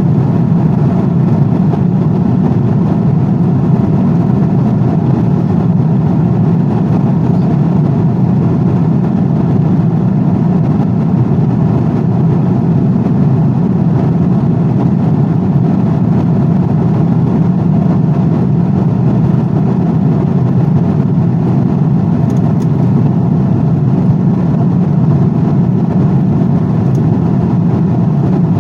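Steady airplane noise: an even low rumble with a rush of higher noise over it, unchanging throughout.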